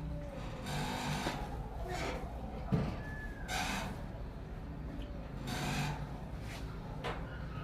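Handling noises: short rustling hisses and light clicks of parts being handled, with one sharp knock a little under three seconds in.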